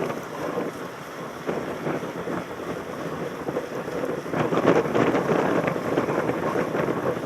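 Wind rushing over a helmet-mounted camera's microphone while mountain biking, with irregular knocks and rattles from riding over rough ground, getting louder about halfway through.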